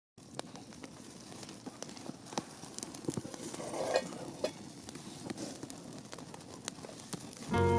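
Wood campfire crackling, with irregular sharp pops over a soft hiss.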